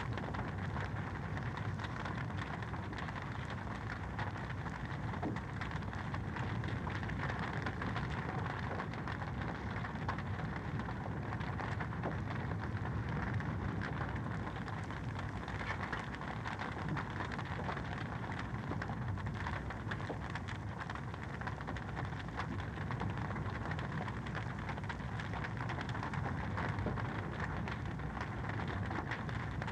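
Wood fire crackling steadily in a fireplace: a dense run of small pops and snaps over an even hiss.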